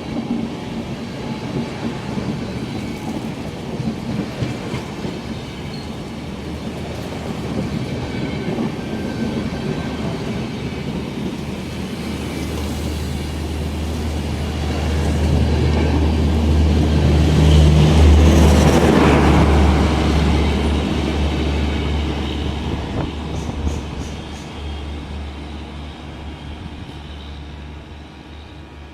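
Express passenger train (12381 Poorva Express) running through a station at speed without stopping. The rumble of wheels on track and a low hum build to a peak about two-thirds of the way through, then fade as the train draws away.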